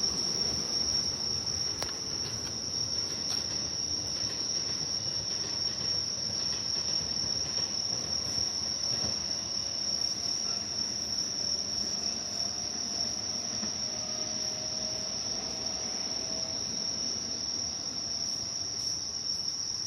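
Crickets singing in one steady, high-pitched trill, over the faint low rumble of a train.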